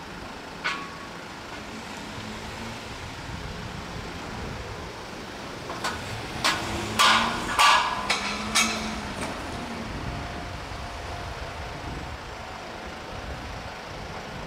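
E233 series 2000 electric train moving slowly through depot pointwork, with a faint whine over a steady background hum. A single click comes about a second in, then a cluster of loud, sharp metallic clanks between about six and nine seconds in.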